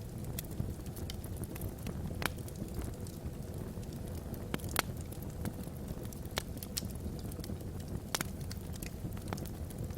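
Wood fire burning in a fireplace: a steady low rumble of flame with scattered sharp crackles and pops from the burning logs, the loudest pop just under five seconds in.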